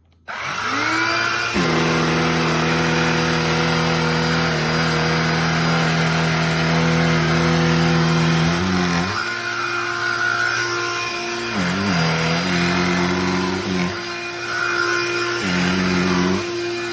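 Cordless handheld vacuum switched on, its motor spinning up to a steady whine within about a second, then running loud with its pitch dipping briefly several times.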